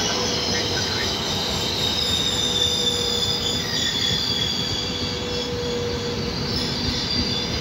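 Intercity passenger train of loco-hauled coaches moving along the platform track, its wheels squealing in steady high-pitched tones over the constant running noise of the train.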